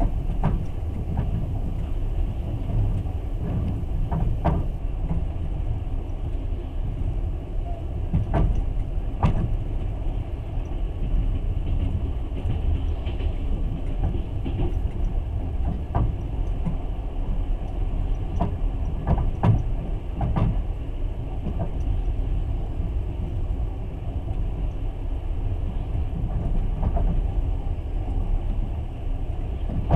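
Passenger train running on rails, heard from inside the carriage: a continuous low rumble with irregular sharp knocks and clicks from the wheels and the car.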